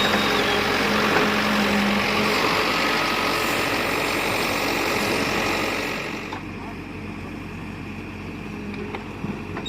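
Tractor diesel engine running with a loud, dense mechanical noise that drops off markedly about six seconds in.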